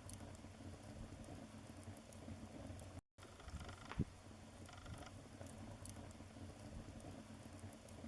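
Wood fire crackling in a fireplace: a steady low rustle of burning with small scattered crackles and one loud pop about four seconds in. The sound cuts out for a moment just after three seconds.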